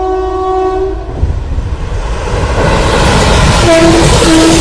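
WAP-4 electric locomotive's air horn sounds a long, steady blast that stops about a second in. Then the rumble and clatter of the express passing at speed grows louder, with two short tones near the end.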